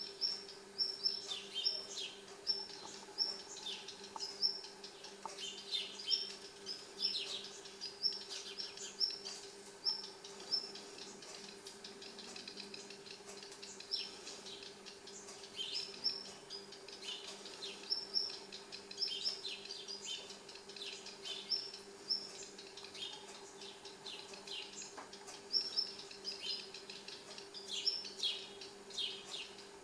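Small birds chirping: short, high calls in quick runs of several notes, recurring every second or two.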